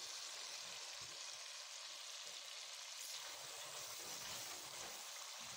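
Taro pieces in oily masala gravy sizzling in a pan: a faint, steady hiss.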